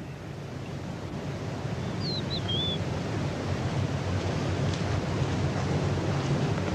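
A steady rushing outdoor noise like wind over a low hum, with one short, high, wavering bird call about two seconds in.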